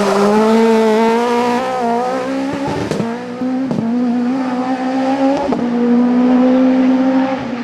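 Competition car engine running hard at high revs, its pitch held fairly steady with a couple of small steps. Three short sharp cracks come through around the middle.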